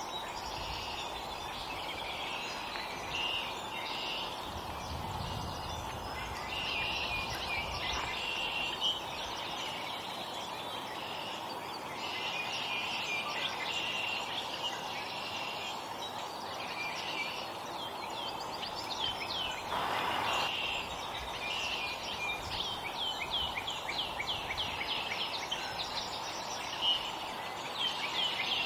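Small wild songbirds chirping and calling over and over, with quick runs of short falling chirps in the second half, over a steady background noise.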